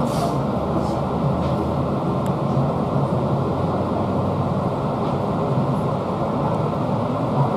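Steady running noise inside a Seibu 2000 series electric train car: a dense rumble of wheels on rail, with a short hiss right at the start.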